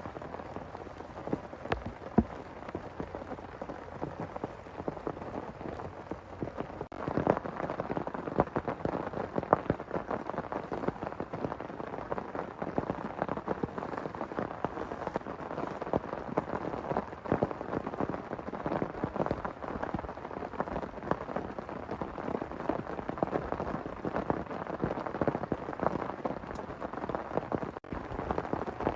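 Heavy rain pouring down, a dense patter of drops hitting a surface, growing heavier about a quarter of the way in.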